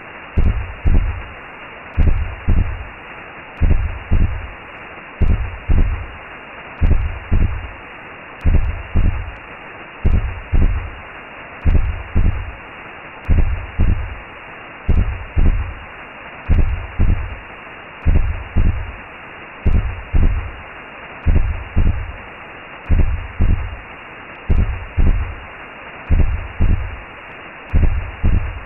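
Recreated womb sound: a slow heartbeat of low double thumps, about one every second and a half, over a steady whooshing hiss.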